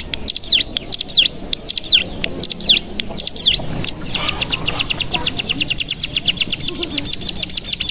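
Ciblek gunung (cigun) singing: a series of sharp high whistles, each sliding down in pitch, then about halfway through a long fast trill of about ten notes a second, the 'ngebren' song.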